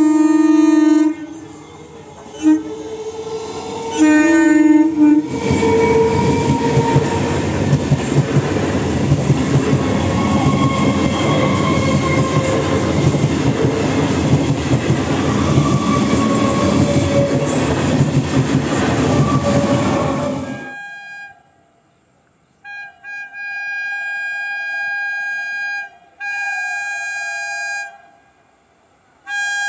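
EMU local train sounding its horn in a few blasts as it approaches, then running past close by, its wheels and coaches making a loud steady rumble for about fifteen seconds. After a break, a higher-pitched steady horn sounds three times in long blasts.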